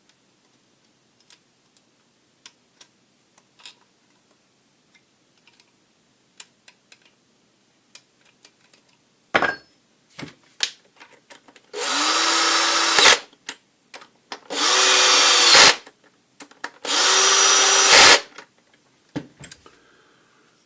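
Faint clicks and taps, then a cordless drill-driver run three times in bursts of about a second each, spinning up and winding down as it drives screws.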